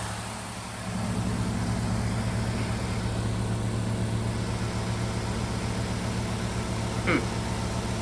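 Pelonis heat pump's outdoor unit humming steadily while in its defrost cycle. The low compressor hum settles back in about a second after a rushing noise cuts off, and a brief chirp comes about seven seconds in. The unit is stuck in defrost, which the owner takes for a malfunction.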